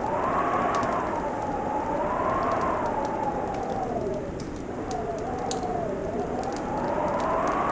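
Wind howling over a crackling wood fire: a hollow moaning tone that slowly rises and falls in pitch, with sparse sharp crackles and pops from the fire and a steady hiss beneath.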